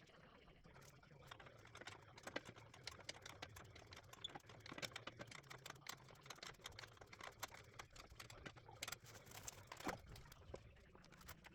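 Faint, rapid and irregular clicking and tapping of small hard parts being handled and fitted.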